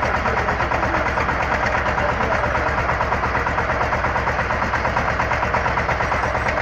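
Engine of an XY-3 water well drilling rig running steadily with a fast, even throb.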